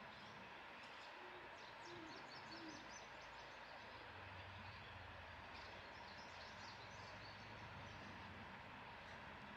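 Faint outdoor ambience with three short, low, evenly pitched calls between about one and three seconds in, and scattered faint high chirps.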